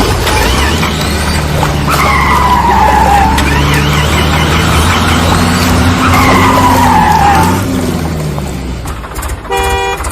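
Heavy vehicle engine running with a steady low rumble. Two high whines fall in pitch over the engine, and a horn toots briefly near the end.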